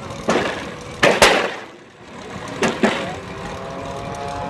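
Steam-engine-driven sawmill running: three short hissing bursts, the loudest about a second in, over the steady sound of the machinery, and a whine that grows and rises slightly near the end.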